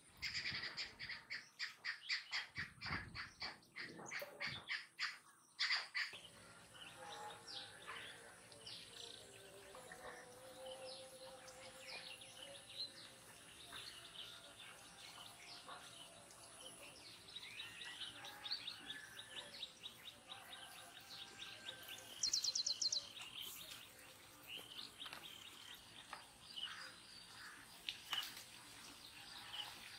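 Birds chirping and calling. For the first six seconds one call repeats rapidly, about three notes a second; after that come scattered short chirps, with a brief fast high trill about two-thirds of the way through.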